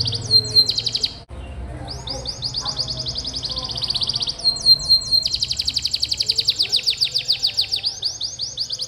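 Domestic canary singing long rapid rolling trills, strings of quickly repeated high notes with some downward-sweeping phrases, broken by a brief pause about a second in.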